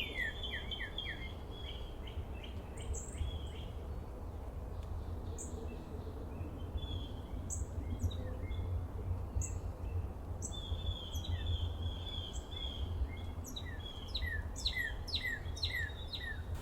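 Wild songbirds chirping and calling, with runs of quick falling chirps at the start and again near the end and scattered short high notes between, over a steady low rumble.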